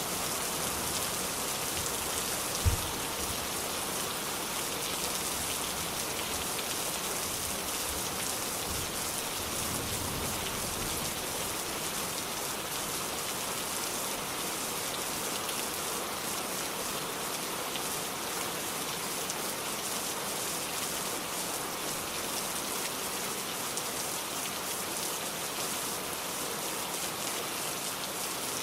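Steady rain falling, a dense, even hiss of many drops. A single brief low thump stands out about three seconds in.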